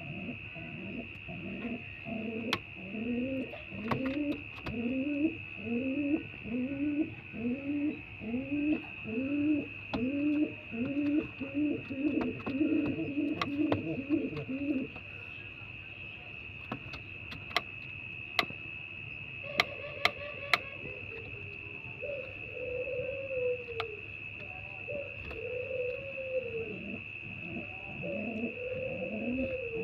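Domestic pigeon cooing. A fast, regular series of rising coos comes at more than one a second for about half the time and then stops. After a pause, slower, longer drawn-out coos follow.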